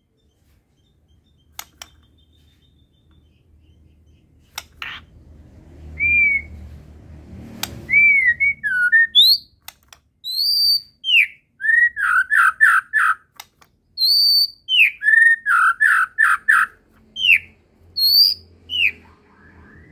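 White-rumped shama singing in loud whistled phrases with quick runs of repeated notes, starting about six seconds in after a few faint clicks.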